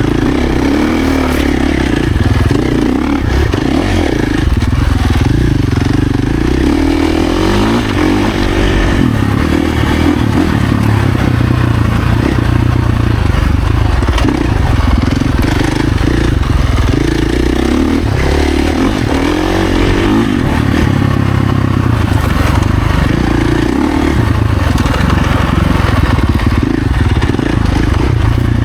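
Husqvarna FC450's single-cylinder four-stroke engine under way on a dirt bike, its pitch rising and falling repeatedly as the throttle is opened and closed, with rattling and scraping from the bike on rough ground.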